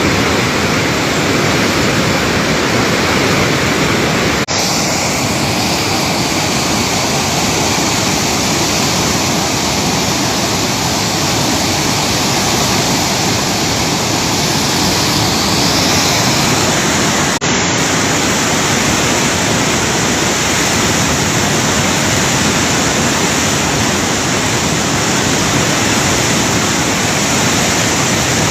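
Floodwater in a swollen river rushing loudly as a steady torrent, broken only by two split-second breaks about four and a half and seventeen seconds in.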